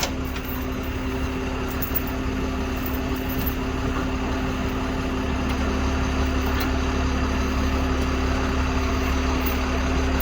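Truck engine idling steadily, growing a little louder about halfway through.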